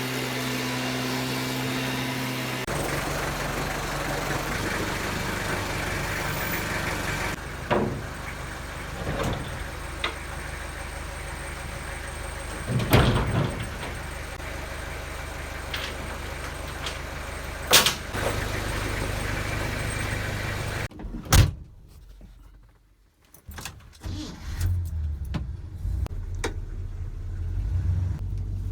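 Motor vehicle running, with engine hum and road noise, broken up by a few sharp knocks and clunks; the sound changes abruptly a few times.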